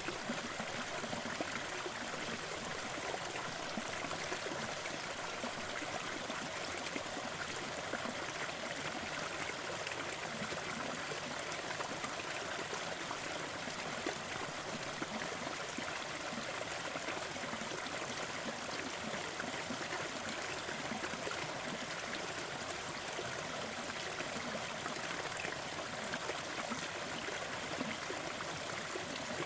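Waterfall: falling water splashing steadily, an even hiss with no breaks or separate events.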